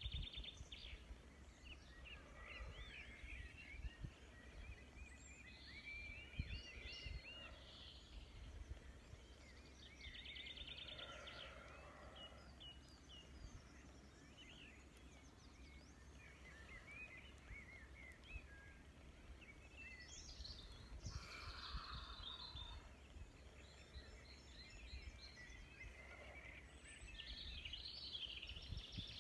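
Faint songbirds singing and chirping in short warbled phrases throughout, over a low rumble.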